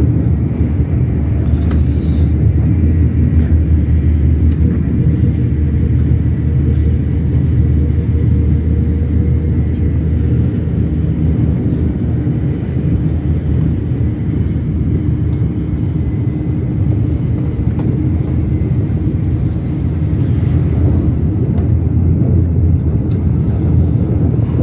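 Shinkansen bullet train running: a steady low rumble with a faint steady whine above it.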